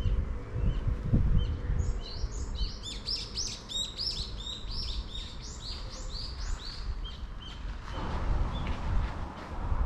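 A songbird singing a fast run of repeated, arching whistled notes that lasts about five seconds, with a few short single chirps before and after it.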